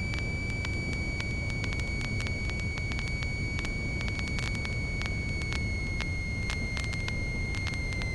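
Cessna 150's four-cylinder Continental O-200 engine and propeller droning steadily in the cockpit in cruise, with a steady high whine that drifts slightly lower after about five seconds and faint crackling clicks.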